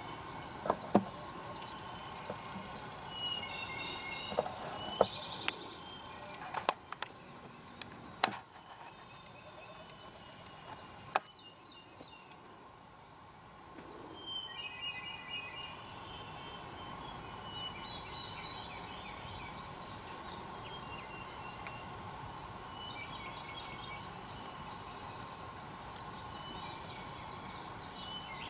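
Wild birds calling and chirping, with short repeated calls and trills through most of the stretch. A quieter lull comes around the middle. About nine sharp clicks come in the first eleven seconds and are the loudest sounds.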